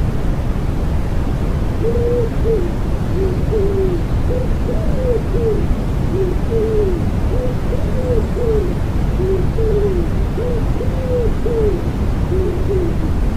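Common wood pigeon cooing: soft, low notes in a run of repeated phrases, starting about two seconds in and going on almost to the end, over a steady, bass-heavy hiss of white noise.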